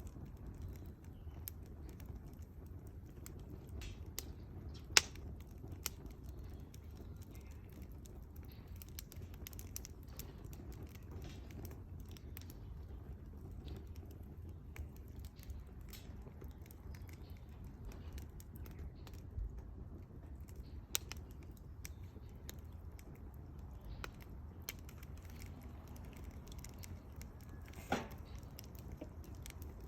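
Wood bonfire crackling, with irregular small pops and snaps, a sharp pop about five seconds in and another near the end, over a low steady rumble.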